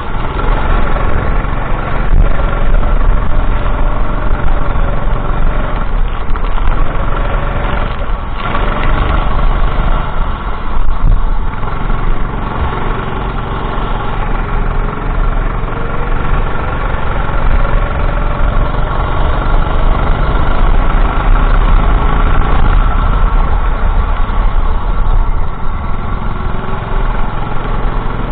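Go-kart engine running on a racing lap, its pitch repeatedly rising as the kart accelerates and falling back as it lifts off for corners.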